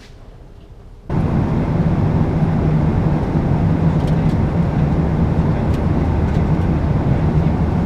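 Steady rumble of a moving vehicle with a low hum, cutting in abruptly about a second in.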